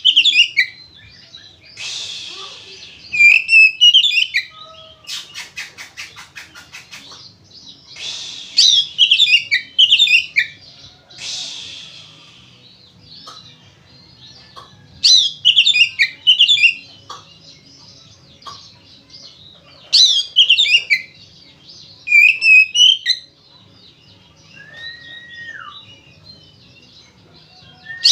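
Oriental magpie-robin (kacer) singing loudly in repeated bursts of rapid, varied whistled phrases, the full combative song that bird keepers call gacor ngeplong. A fast rattling trill comes about five seconds in, and a single drawn-out falling whistle near the end.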